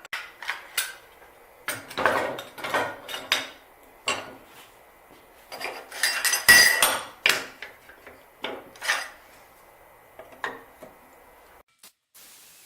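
Small steel pieces and a large welding magnet clanking and clinking against each other and a bench vise as they are set in place: a dozen or so irregular metallic knocks with a ringing tail. The knocks stop shortly before the end.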